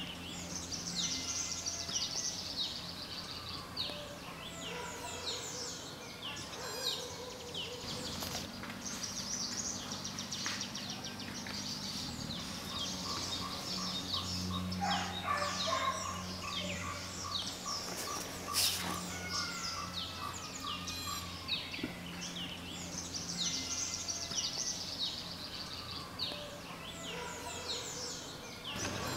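Birds chirping and calling over and over, with a brief rapid trill about halfway through, over a steady low hum.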